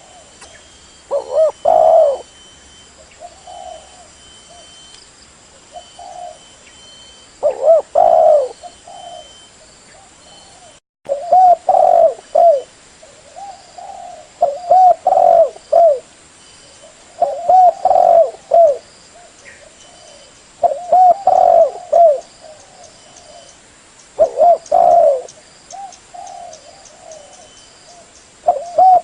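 Spotted dove (tekukur) cooing: a loud, repeated phrase of several low, rounded coos, recurring about every three seconds.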